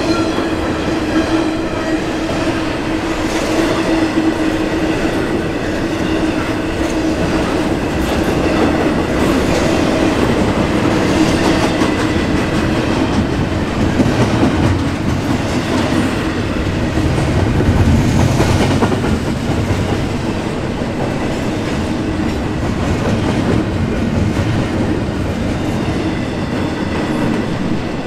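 Double-stack intermodal container cars of a freight train rolling past close by: a steady rumble and clatter of steel wheels over the rails. A steady tone rides on top and fades out over the first several seconds.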